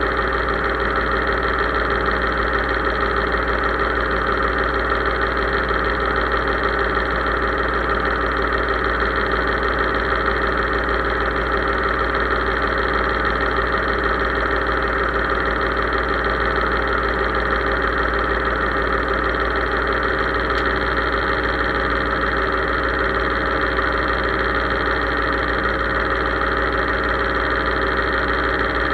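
Case IH 3220 tractor's diesel engine running steadily at a constant speed.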